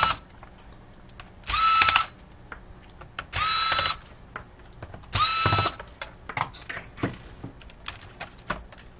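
Electric screwdriver backing out laptop keyboard mounting screws: three short whirs, each rising quickly to a steady pitch, about two seconds apart. Faint light clicks of handling follow near the end.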